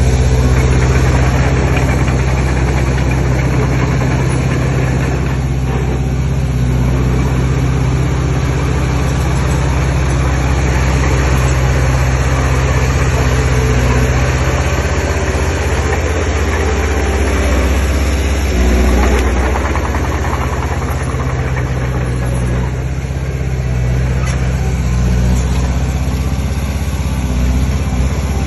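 Heavy diesel engine of earthmoving machinery running steadily, its pitch shifting about two-thirds of the way through.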